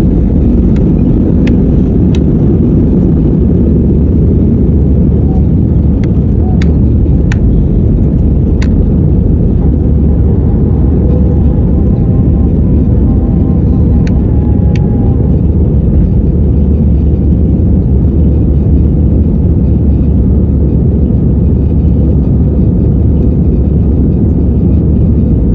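Airliner jet engines at take-off power: a loud, steady low rumble, with a few faint clicks early on.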